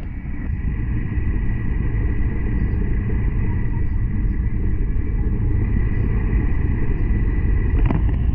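N700 series Shinkansen running at speed, heard from inside the passenger car as a steady, even rumble with a faint thin whine above it. A couple of faint clicks come near the end.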